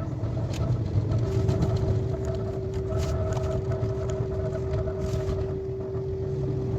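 KTX high-speed train running, heard from inside: a low rumble with a steady whine held from about a second in, and a few light clicks.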